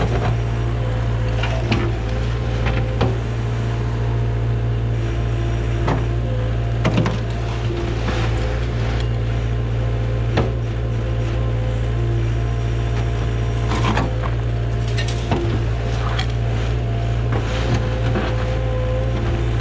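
Excavator's diesel engine running steadily, with scattered knocks and clatters throughout.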